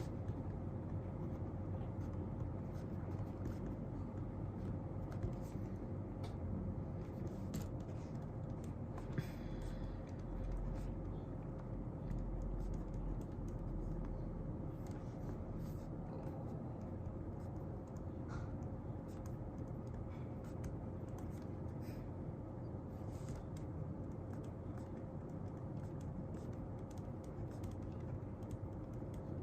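Steady low room hum with a faint constant tone, over which scattered light clicks and scratches of desk work sound, from a pen on paper and a keyboard being typed on.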